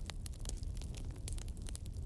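Wood campfire burning, with frequent sharp crackles and pops over a steady low rumble of the flames.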